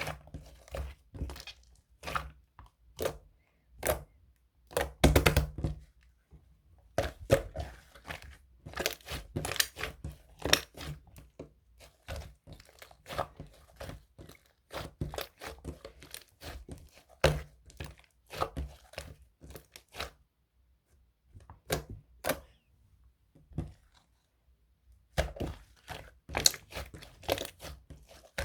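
Irregular close-up handling sounds: crinkling and rustling with soft knocks and clicks, coming in clusters with short pauses between them.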